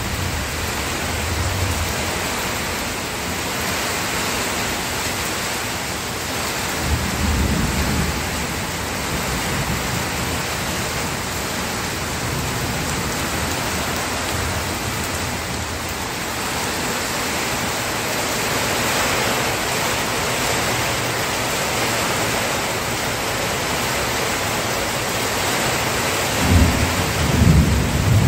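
Steady rain with thunder, low rumbles swelling about seven seconds in and again near the end.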